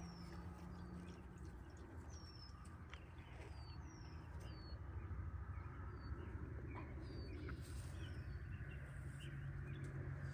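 Faint small-bird chirps: short high calls, each falling in pitch, repeated irregularly about every half second to a second, over a low steady rumble.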